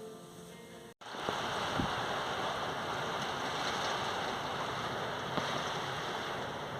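Heavy storm rain pouring down steadily, starting suddenly about a second in, with a few sharper drop hits.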